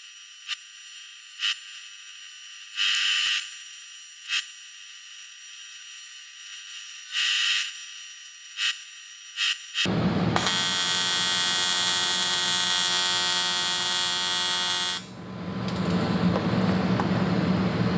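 TIG welding arc on aluminium crankcases buzzing in short bursts, with high buzzy tones. About ten seconds in, a loud machine starts up with a whine of many tones, then settles after about five seconds into a lower, noisier hum.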